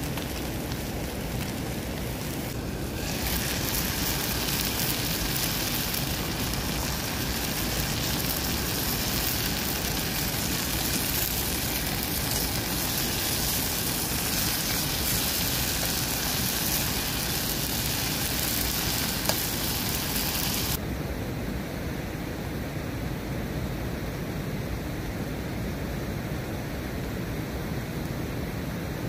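Onions, tomatoes and chilies sizzling as they fry in a metal pot over a campfire while being stirred; the sizzle starts about three seconds in and stops suddenly about two-thirds of the way through. A steady rushing noise runs underneath.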